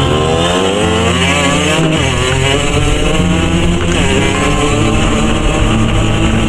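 CPI SM 50's two-stroke 50cc engine with an aftermarket SCR exhaust, accelerating hard under way. Its pitch climbs, drops sharply about two and four seconds in as it shifts up, then climbs again.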